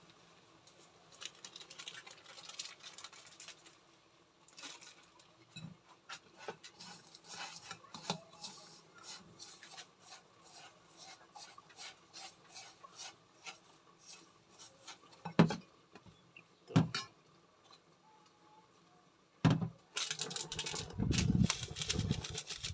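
Kitchen dishes and utensils clinking and knocking during food preparation: a run of light clicks and taps, two sharp knocks a little past the middle, then a louder clatter near the end.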